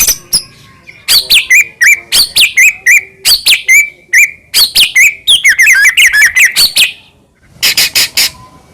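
White-rumped shama singing loudly and fast: phrases of sharp notes, each ending in a whistle sliding down, repeated about twice a second, then after a short pause a quick burst of rapid harsh notes near the end.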